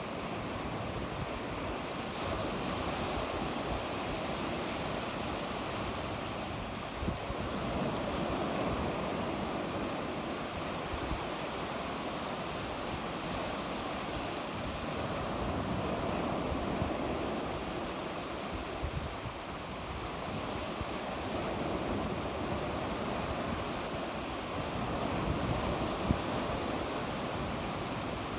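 Sea waves breaking on the shore, the wash rising and falling every few seconds, with some wind rumbling on the microphone.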